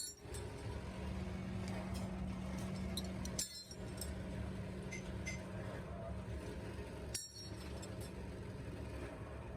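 Workshop machine with a steady electric hum and light metal clinks of parts being handled. The sound drops out briefly twice.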